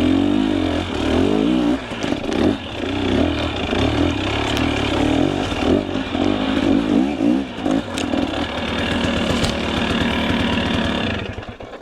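Two-stroke enduro dirt bike engine revving hard and unevenly, the throttle working up and down as the bike climbs a steep, rough trail. It drops away sharply about eleven seconds in.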